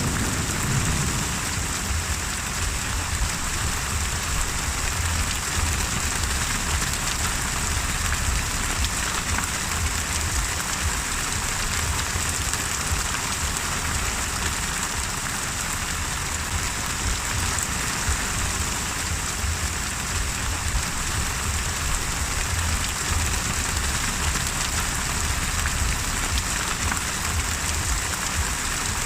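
Steady rainstorm: dense, even rain noise with a continuous low rumble underneath and no distinct thunderclap.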